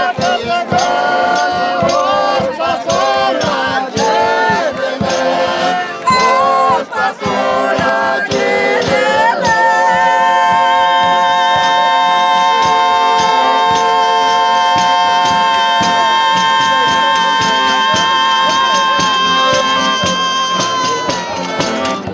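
Folk singing over fast hand percussion. Short sung phrases with moving pitch give way, about ten seconds in, to a single long held high note lasting around eleven seconds that fades near the end.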